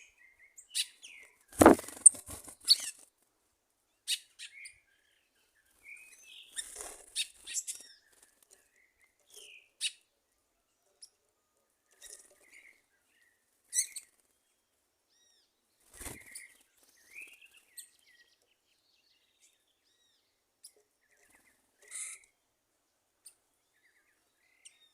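Wild birds giving short, scattered chirps and calls. A brief cluster of loud thumps comes about two seconds in, and a single thump about sixteen seconds in.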